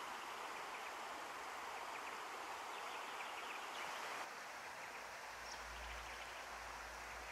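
Steady outdoor bush ambience: an even hiss of background noise by the water, with faint distant bird calls and one brief high chirp about five and a half seconds in. The hiss drops slightly a little past four seconds.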